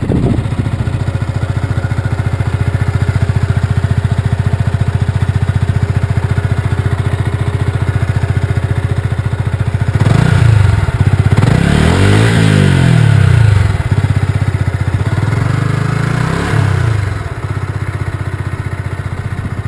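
Yamaha YZF-R125's 125 cc single-cylinder engine idling steadily, then revved three times about halfway through, each rev rising and falling, before settling back to idle.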